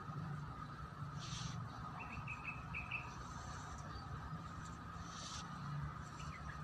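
Outdoor background with a small bird giving a quick run of about five short chirps a couple of seconds in. Two brief rustles and a steady faint high tone sit underneath.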